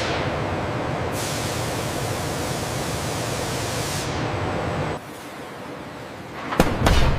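Steady rushing, hissing noise that drops away abruptly about five seconds in, followed near the end by a few sharp knocks.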